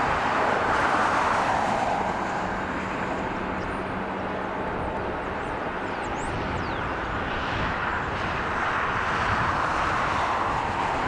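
Jet airliner engine noise: a steady rush that eases off about two seconds in and swells again in the last few seconds.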